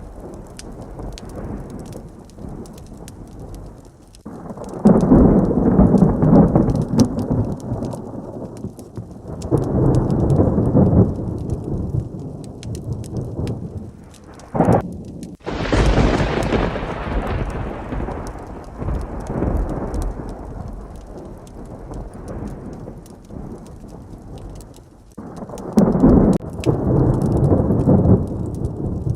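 Heavy rain with thunder: several low rolling rumbles, and about halfway through a sharp crack followed by a loud, close thunderclap that slowly rumbles away.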